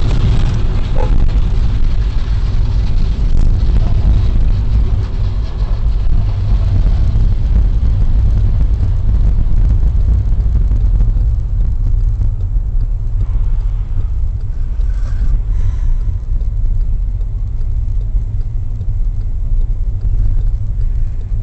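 A car driving, heard as a steady low engine and road rumble with no sudden impacts.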